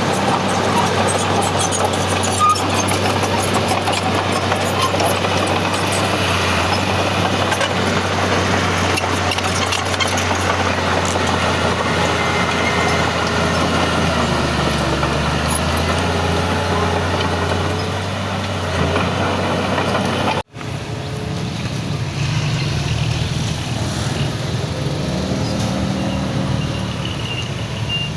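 Heavy diesel engines of a crawler bulldozer and a dump truck running steadily. The sound cuts off abruptly about two-thirds of the way through and resumes with a different, lower engine note. Near the end a reversing alarm starts beeping.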